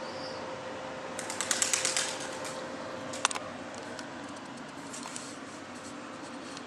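A rapid run of sharp clicks lasting about a second, then a few more clicks a second later and scattered ones near the end, over a steady hum of background noise. One short high chirp right at the start.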